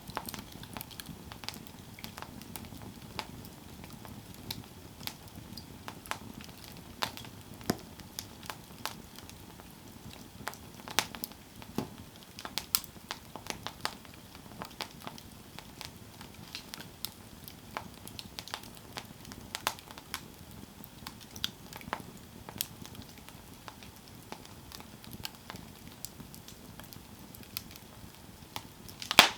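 Campfire burning with steady, irregular crackling and popping over a soft low hiss, and one louder pop near the end.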